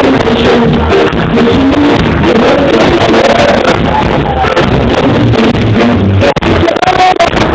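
Live reggae band playing with drums and guitar, loud and distorted as picked up by a phone's microphone in the crowd.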